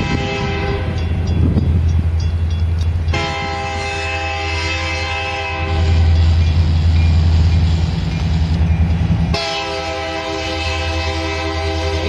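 Diesel freight locomotive's air horn sounding a multi-note chord over the steady rumble of its engine. It gives a short blast at the start, one long blast starting about three seconds in, and another long blast starting just after the nine-second mark.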